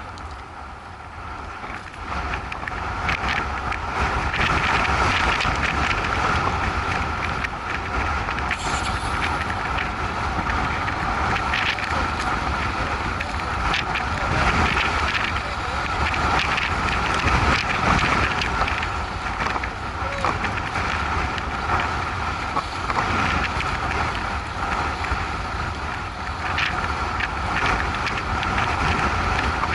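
Motorcycle on the move with steady road and engine noise, and heavy wind buffeting on the microphone.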